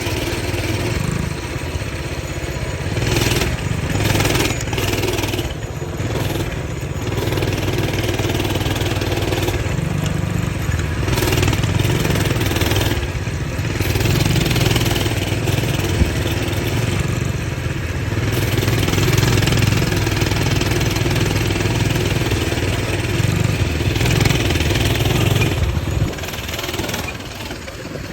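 Dirt bike engine running and being revved up and down several times, dropping back quieter near the end.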